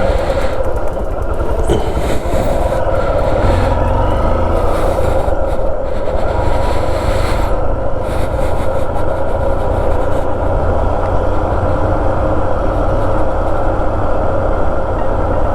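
Motorcycle engine running steadily while riding, with heavy wind rumble on the action-camera microphone.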